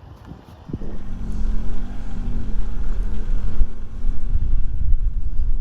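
Car engine running and pulling away: quiet at first with a click, then from about a second in the engine comes up and holds steady, with a heavy low rumble and wind buffeting the microphone.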